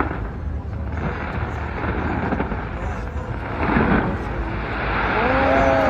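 New Year fireworks going off in a continuous rumble of booms and crackle, with crowd noise underneath. A single voice calls out near the end.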